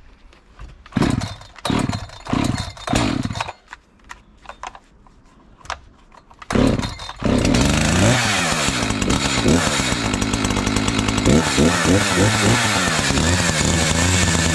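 Echo CS 590 two-stroke chainsaw being pull-started: several short pulls of the starter cord, then the engine catches about seven seconds in and runs, its pitch rising and falling as it is revved.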